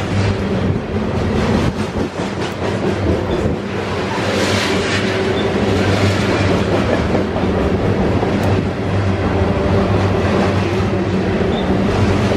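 Freight train of container-laden flat cars rolling past close by: steady rumble of steel wheels on the rails with a clickety-clack over the rail joints.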